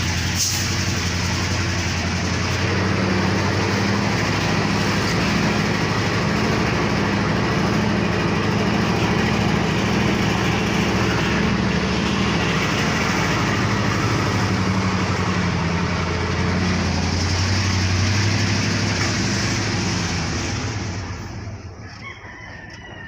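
Heavy diesel engine running steadily under load, dying away about three seconds before the end.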